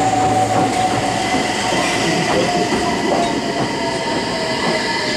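Meitetsu 100 series electric commuter train pulling out and rolling past, its wheels clacking on the rails under a steady whine.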